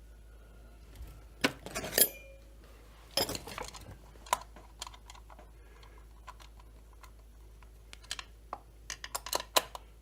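Metal tools and small parts clinking and clattering on a workbench in separate sharp knocks, with a quick run of clinks near the end.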